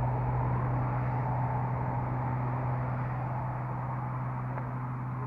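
Motorboat engine running with a steady low hum that eases off slightly over the few seconds.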